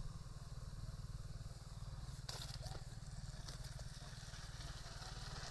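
An engine running steadily at a low, even idle, with a few faint clicks and rustles a little over two seconds in.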